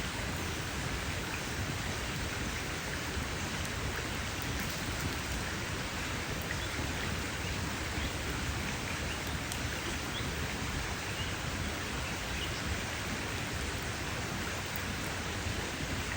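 Campfire burning: a steady, even hiss with a few faint, scattered crackles.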